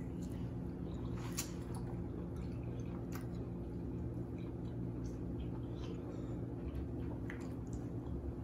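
Wet, squishy chewing and mouth sounds of a person eating seafood-boil food by hand from a bowl of sauce, with scattered small sharp clicks, the clearest about a second and a half in and about three seconds in. A steady low hum runs underneath.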